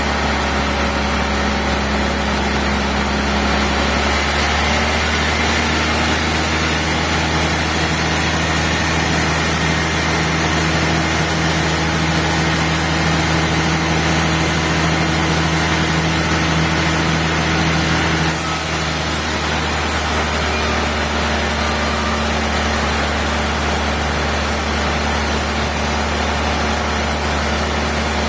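Sawmill machinery running steadily with a continuous hum, its pitch shifting about five seconds in and again near two-thirds of the way through.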